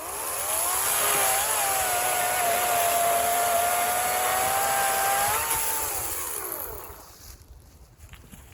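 EGO 56-volt battery-powered chainsaw's electric motor spinning up to a steady whine, holding it for about four seconds, lifting briefly in pitch, then winding down and stopping near the end.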